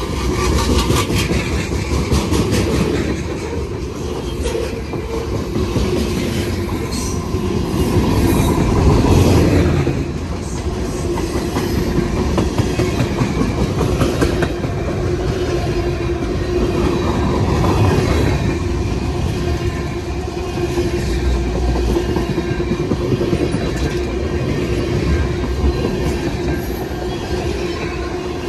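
Railway cars rolling past at close range, their wheels clicking over the rail joints, over a continuous rumble with a steady tone.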